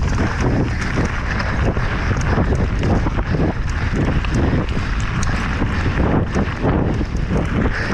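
Wind buffeting the microphone over the rattle and knocks of a mountain bike riding fast downhill on rough ground.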